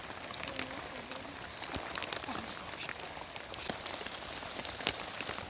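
Rain falling steadily, with many sharp drop hits on a nearby surface.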